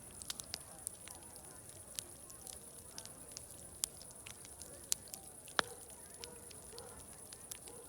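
Wood fire crackling, with sharp irregular pops, the loudest about five and a half seconds in. Faint distant crowd chatter runs underneath.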